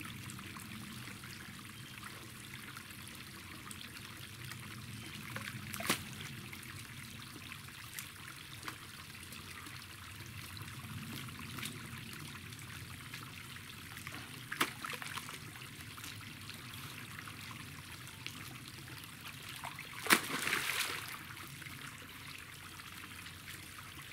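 Water trickling steadily, with a few sharp knocks, the loudest about twenty seconds in.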